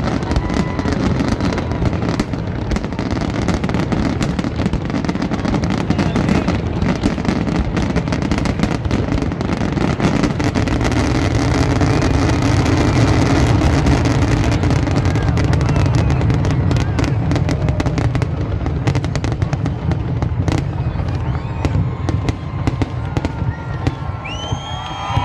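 Fireworks bursting in a dense, continuous barrage of bangs and crackles over a low rumble. Right at the end a crowd starts cheering and whooping.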